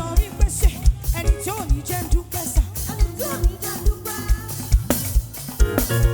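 Live gospel praise band music with a steady kick drum beat about twice a second under melodic lines and light percussion.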